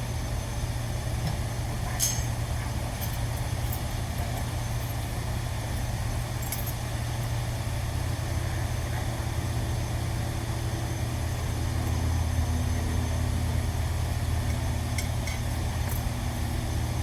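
Steady low mechanical drone, like an engine or machine running, that deepens and grows slightly louder about eleven seconds in, with a few light clicks over it.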